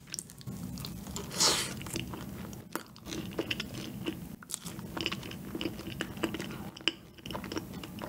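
Close-miked chewing of a soft, chewy cream-filled donut, with wet mouth clicks and squelches. A brief louder rush of noise comes about a second and a half in.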